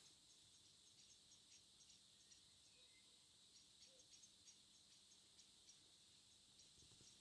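Faint birds chirping in the distance: a steady scatter of short, high chirps, with an occasional lower note.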